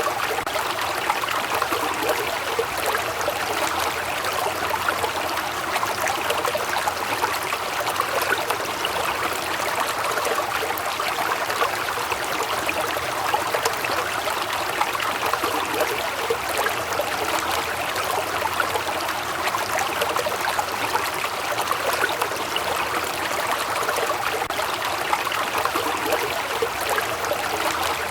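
Waterfall: steady rushing and splashing water.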